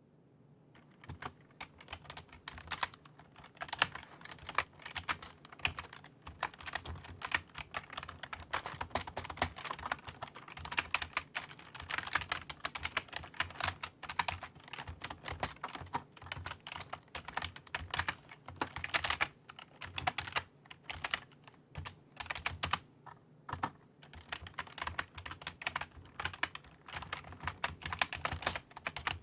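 Typing on a computer keyboard: a fast, irregular patter of key clicks with brief pauses between runs, over a faint low hum.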